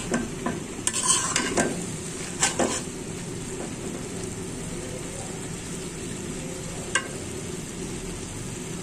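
Shredded cabbage and shrimp frying in an open pan with a steady sizzle. A metal spatula stirs the mix, scraping and clinking against the pan several times in the first three seconds and once more about seven seconds in.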